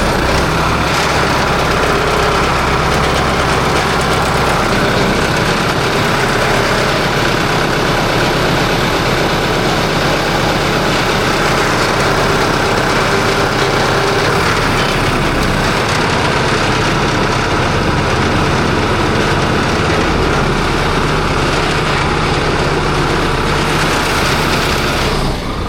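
A large engine running steadily, just after being started, loud and even throughout until it drops away near the end.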